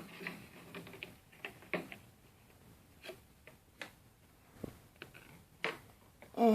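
Scattered clicks and light knocks of a vacuum cleaner's plastic parts being handled while an attachment is worked off, with a louder bump near the end.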